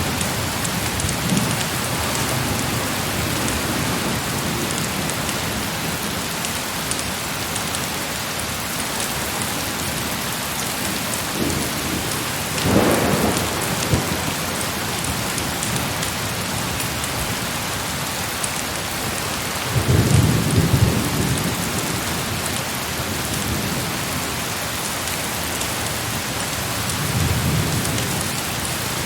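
Heavy rain falls in a steady hiss throughout. Distant thunder rumbles three times: a first roll about halfway in, the loudest about two-thirds of the way through, and a softer one near the end.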